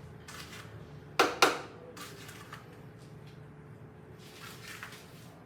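Two sharp knocks about a quarter second apart, a little over a second in, with lighter clicks and taps around them: containers being handled and set down on an electric stovetop.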